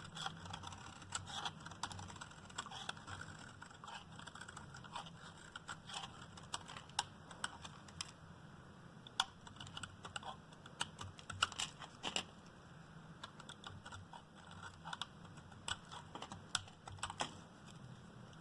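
A blade cutting through a bar of dry, hard Duru soap: a run of crisp, irregular cracks and crunches as the brittle soap gives way, with a scraping sound in the first few seconds.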